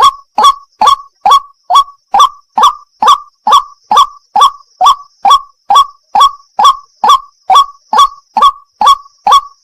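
White-breasted waterhen (wak-wak) calling: loud, short, harsh notes repeated evenly about twice a second without a break.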